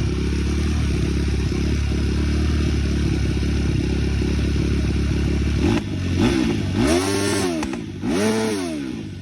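Small engine idling steadily, then revved three times in quick blips, each rising and falling in pitch, before dropping back to a lower idle.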